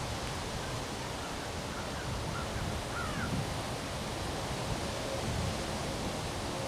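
Steady rushing wind of a windstorm, swelling slightly in gusts.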